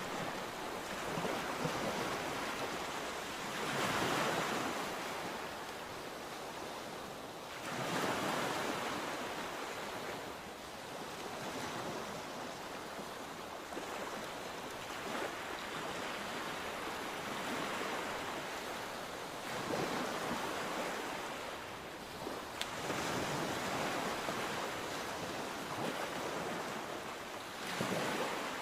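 Sea waves breaking and washing on the shore in a continuous surf hiss that swells with each wave every few seconds. Wind buffets the microphone.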